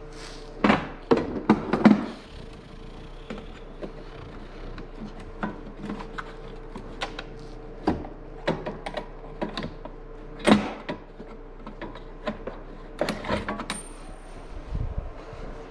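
Metal sockets and tools clinking and clattering as a toolbox drawer is rummaged through, with a cluster of loud knocks about a second in and scattered clinks after, over a steady faint hum.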